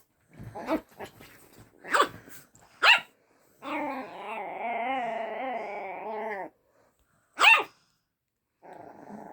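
Dog barking in short, sharp single barks, with a drawn-out wavering cry of about three seconds in the middle and another sharp bark near the end.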